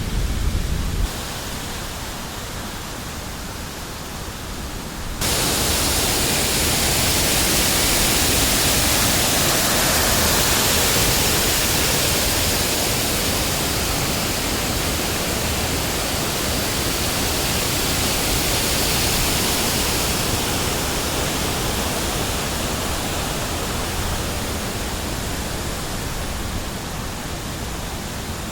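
A steady rushing hiss of water, with no distinct tones. It steps up sharply about five seconds in and eases slightly near the end.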